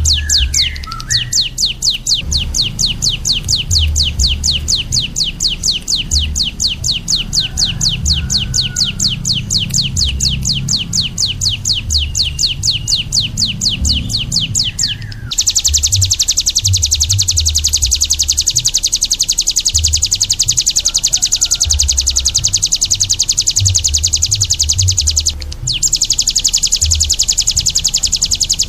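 Songbird repeating high, rapid chip notes in a long even trill. About halfway through it switches to a faster, louder run that breaks off for a moment near the end. Low irregular thumping runs underneath.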